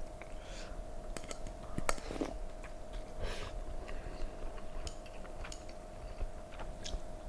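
A man chewing braised pork, with soft wet mouth sounds and scattered light clicks of metal chopsticks against a plate. A faint steady hum runs underneath.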